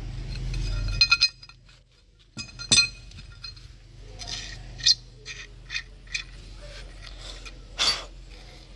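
A low hum that cuts off about a second in, followed by scattered sharp clicks and clinks of small hard objects.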